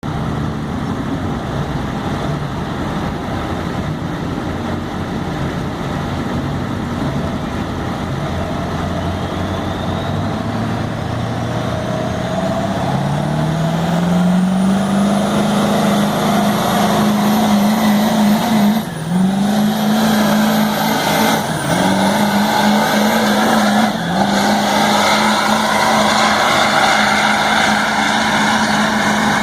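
Diesel pickup truck engine pulling hard under load on a pulling sled. The revs climb over the first half with a rising turbo whistle, then hold high with three brief dips in the second half.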